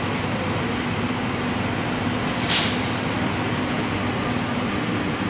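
Electric suburban trains standing at a station platform, a steady hum of running equipment, with one short, sharp hiss of compressed air about two and a half seconds in, typical of an air brake release as a train gets ready to move.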